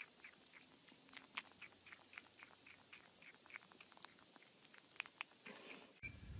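Kitten chewing and licking at the rim of an orange plastic lid: faint, quick clicking about four or five times a second. Near the end the clicking gives way to a low hum.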